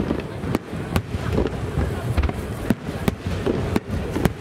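Aerial firework shells of a star mine bursting overhead: about seven sharp bangs at irregular intervals over a continuous rumble.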